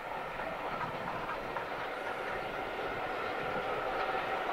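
Passenger train's coaches running along the track, a steady sound of wheels on rails.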